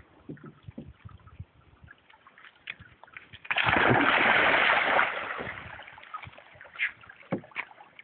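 A big splash of water that starts suddenly about three and a half seconds in, holds for a second or so and trails off, with small knocks and lapping before and after it.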